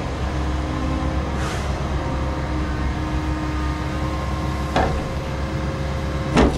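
Heavy diesel engine of a Liebherr log-loading machine running steadily under a log-loading job. There is a brief hiss early on, a knock about five seconds in, and a heavy knock near the end as logs begin to clatter together.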